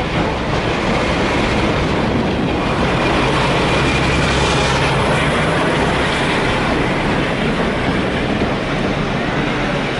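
Heritage railway train running along the line, heard from on board: a steady, loud rumble of the carriage and wheels on the track.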